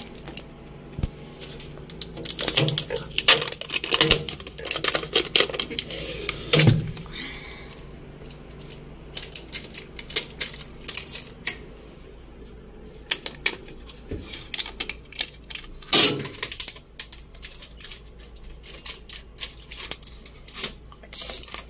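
Packing tape being peeled off the fittings of a new refrigerator, several pulls with a crackling rip, among scattered clicks and light knocks.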